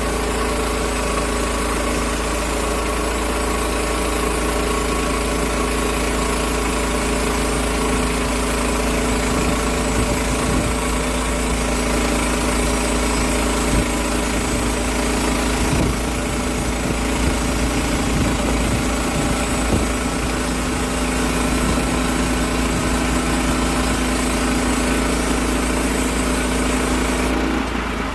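Portable sawmill's engine running steadily under load while cutting a slab off an oak log.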